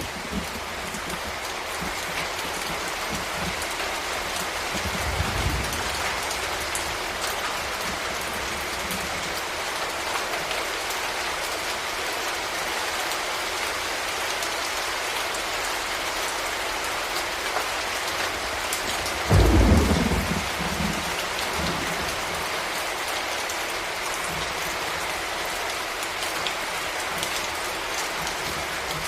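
Steady heavy rain falling, with a low roll of thunder about five seconds in and a louder clap of thunder about two-thirds of the way through that rumbles away over a couple of seconds.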